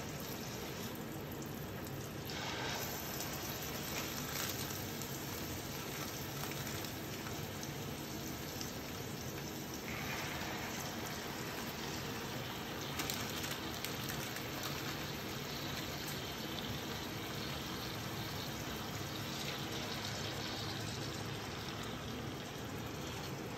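Marinated chicken thighs frying in melted butter in a frying pan, a steady sizzle.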